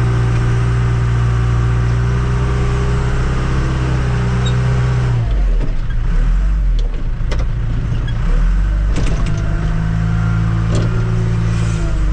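Tractor-loader-backhoe engine running steadily; about five seconds in its note changes and drops, and a few sharp knocks from the machine come through afterwards.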